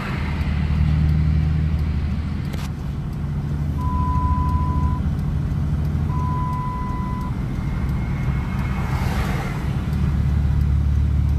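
A vehicle's engine running steadily at road speed. Two long single-pitch beeps sound in the middle, and near the end another vehicle rushes past.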